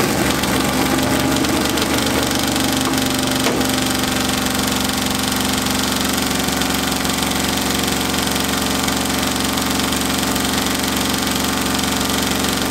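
Lamborghini Huracán V10 engine running steadily at idle on its first start-up, exhausting straight out of the manifolds with no mufflers fitted.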